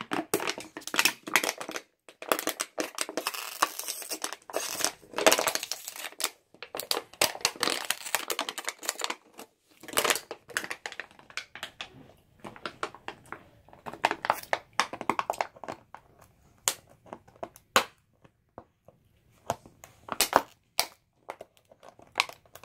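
Dog chewing and crushing an empty plastic bottle: bursts of loud crinkling and crackling plastic with short pauses between them.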